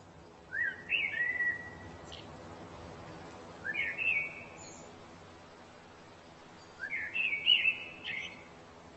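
A songbird singing short whistled phrases of rising, sliding notes, three times, about every three seconds.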